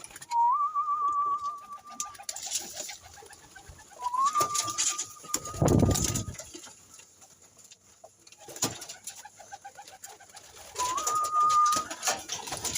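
Pigeons calling: three long, level-pitched, slightly wavering calls, each sliding up at its start. A loud low thump comes about six seconds in.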